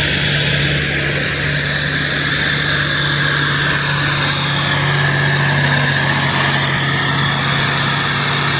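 Tractor engine running at a steady speed, holding one constant low note without revving.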